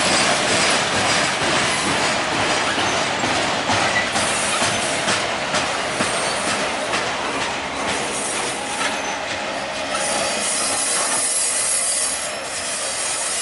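Freight train's autorack cars rolling past: steady noise of steel wheels on rail with scattered clicks, easing off near the end as the last car goes by.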